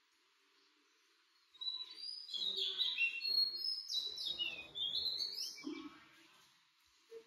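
A bird singing a quick run of high chirps and whistles for about four seconds, starting about a second and a half in and fading out near the end.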